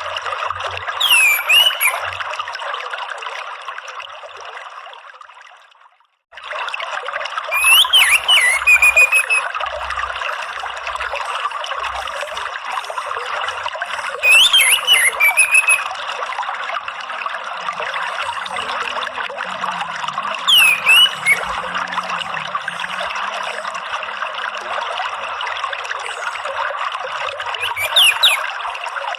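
Steady trickling running water, with a short bird call repeated five times: a quick downward-sweeping note followed by a brief trill. The water fades out a few seconds in, cuts to silence for a moment, then starts again abruptly.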